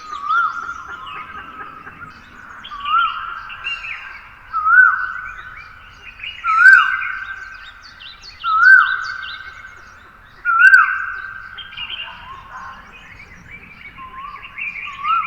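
Wild forest birds singing at dawn. One bird repeats a loud, short whistled note that rises and then drops, about every two seconds. Other birds chirp more softly and higher in pitch around it.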